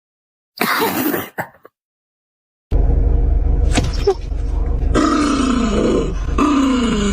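Sleeping dog groaning: two drawn-out groans, each about a second long with a pitch that bends and falls, over a steady low hum. A short burst of noise comes about a second in, before the hum starts.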